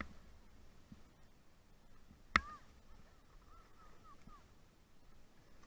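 A sharp click, then a run of about five short, faint, high whines from a Siberian husky, each rising and falling in pitch.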